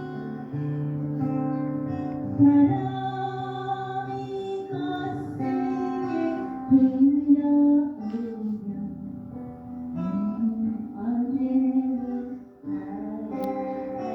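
A woman singing a slow song over acoustic guitar accompaniment.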